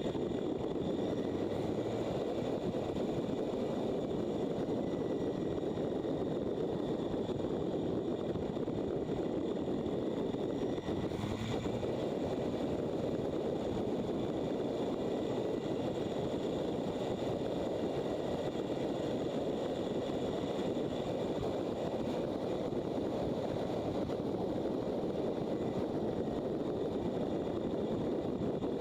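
Motorcycle under way, heard from an onboard microphone: steady engine and wind-rush noise at an even level, with a brief tick about eleven seconds in.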